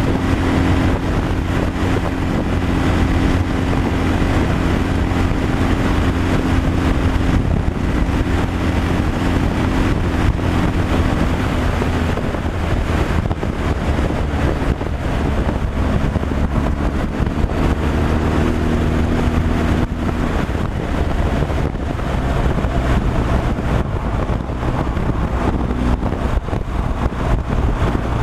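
Semi-trailer truck driving on the highway: its diesel engine running steadily under road and wind noise, the engine note shifting slightly partway through.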